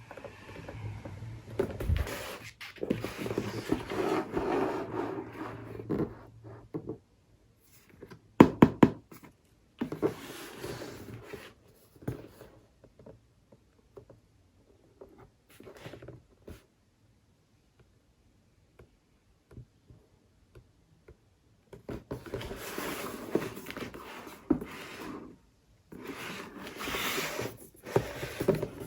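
Handling and unpacking a small boxed product: rustling and scraping of packaging with a few sharp knocks, in stretches separated by a long quiet gap in the middle.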